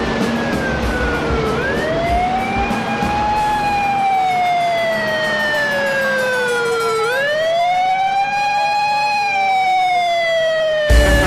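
Fire truck siren wailing: the pitch climbs quickly and then sinks slowly, repeating about every five and a half seconds, over low traffic rumble at first. A short loud thump near the end.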